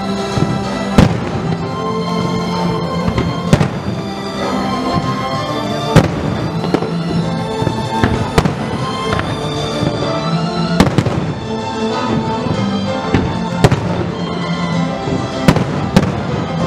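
Aerial firework shells bursting, a sharp bang every two to three seconds, over music that runs with the display as a pyromusical.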